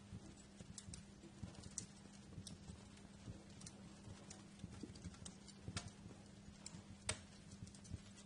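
Wood fire crackling: irregular sharp pops and snaps over a low rumble of burning logs, with one louder pop about seven seconds in.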